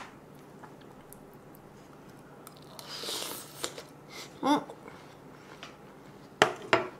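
Close-miked chewing of spoonfuls of watermelon, with wet mouth noises. There is a breathy slurp about three seconds in, a short vocal sound about a second later, and two sharp clicks near the end.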